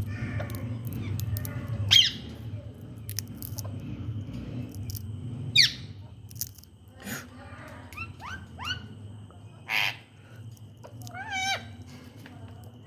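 Ringneck parrot giving short high calls between pauses: a loud falling squawk about two seconds in and another midway, then a few quick rising chirps and a warbling call near the end. A steady low hum runs underneath.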